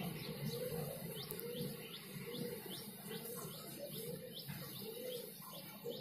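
Birds calling: a quick rising chirp repeated about twice a second for a few seconds, and a low hooting note repeated steadily, over a faint low rumble.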